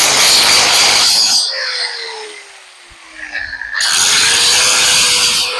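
Paint spray gun blasting air and paint in two long hissing bursts with a pause of about two seconds between them, spraying primer onto metal grills.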